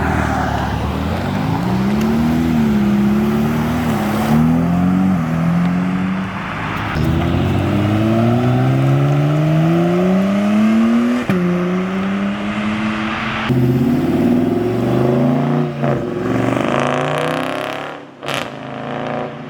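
Performance car engines accelerating hard out of the lot one after another, each climbing in pitch and dropping back at the gear shifts.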